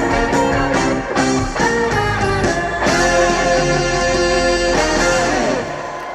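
Live band playing the instrumental close of a trot song, guitar to the fore, ending on a long held chord that dies away near the end.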